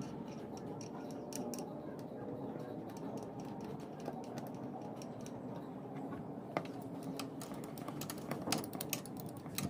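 Honda RS150R motorcycle engine running with a rapid, irregular ticking clatter over a steady hum: the noise that comes with the tensioner adjustment.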